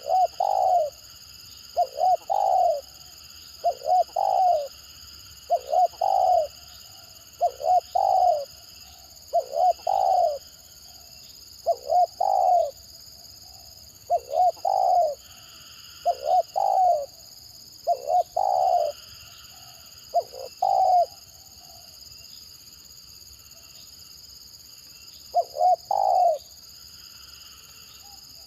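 Spotted dove cooing over and over in the stuttering style fanciers call 'gagap': short clipped coo phrases about every one to two seconds, with a pause of a few seconds near the end.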